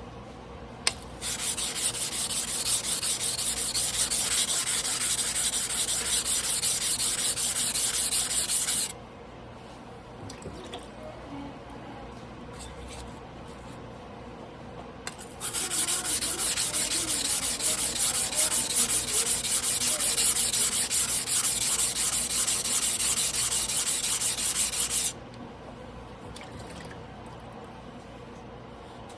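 Carbon-steel yanagiba blade being hand-sharpened on a wet whetstone: steel rubbing against stone in steady back-and-forth strokes. The sharpening runs in two long spells, about eight and ten seconds, with a pause of several seconds between them.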